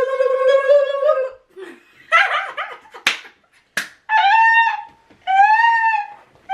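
Vocal hype noises: a drawn-out high voice that stops about a second in, a short laugh, two sharp smacks, then three short, high, rising-and-falling calls.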